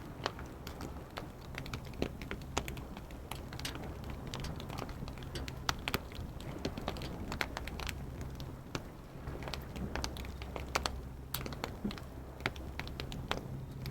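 Wood fire crackling, with sharp, irregular pops and snaps over a low steady rumble.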